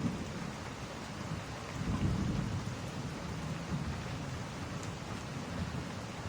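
Steady rain with a low rumble of thunder swelling about two seconds in and fading over the next second or so.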